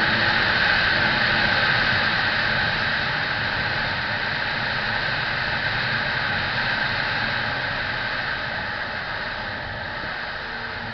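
Steady rushing noise of a motorcycle ride, with a faint engine tone under it; the rush eases gradually over the later seconds.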